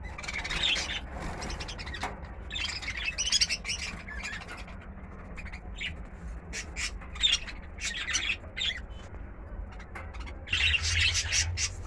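Pet cockatiel and budgerigars in their cages giving many short chirps and squawks, with louder bursts about three seconds in and near the end.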